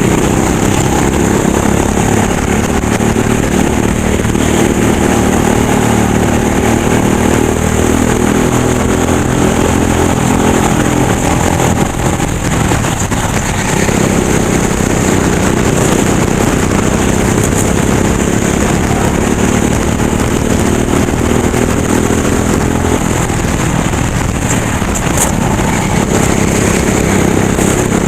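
Racing kart engine running hard, its pitch rising and falling with the throttle, with a short drop in level about twelve seconds in.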